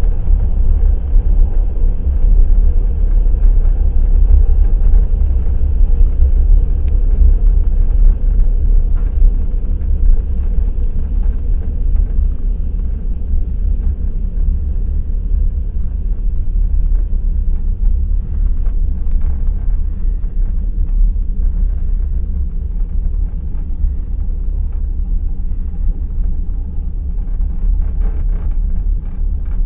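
Passenger train wheels running on the rails at speed: a loud, steady low rumble with scattered light clicks.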